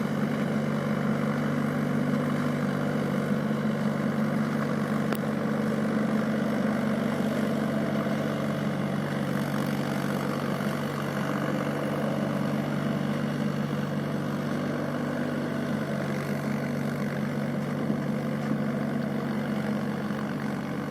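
Mahindra tractor's diesel engine running at a steady speed.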